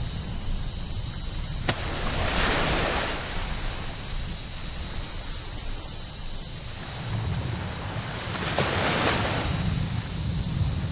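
Sea waves breaking and washing up a beach, one swell about two seconds in and another near the end, over a steady low rumble of wind. A single sharp click comes just before the first wave.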